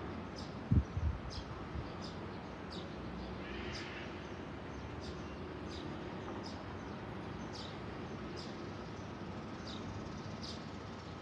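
A small bird calling over and over with short, high, falling chirps, about one or two a second, over steady outdoor background noise. A brief low thump comes about a second in.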